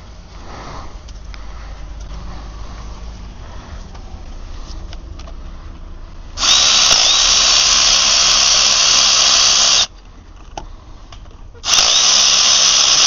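Power tool running in two long bursts with a short pause between them, taking out the flywheel bolts. Before the bursts there is only a lower, quieter background of handling noise.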